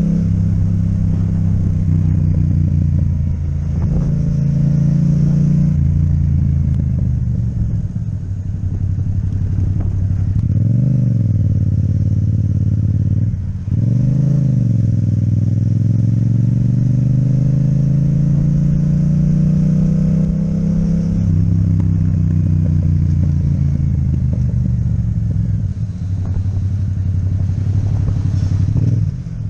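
Yamaha MT-07's parallel-twin engine with an Akrapovic exhaust running under way, its note stepping up and down with gear changes. About ten to fourteen seconds in the revs climb and fall twice in quick succession.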